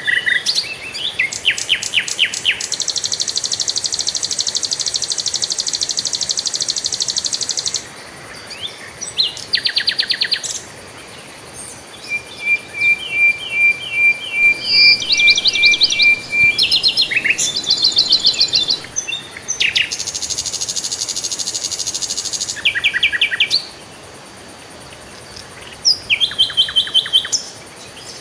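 Several songbirds singing and calling in turn: rapid high trills, a run of short repeated chirps about two-thirds of the way in, and long buzzy trills held for several seconds at a time.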